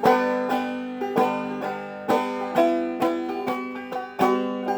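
Banjo played clawhammer style: picked notes with sharp attacks that ring and fade over a steady drone note, with strong strikes about once a second.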